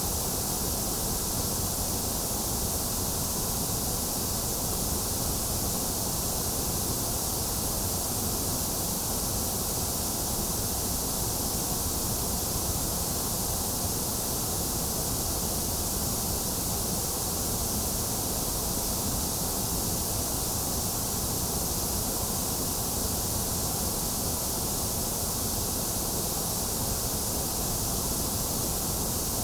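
Steady electronic white noise: an even, unchanging hiss, slightly hollow in the upper-middle range.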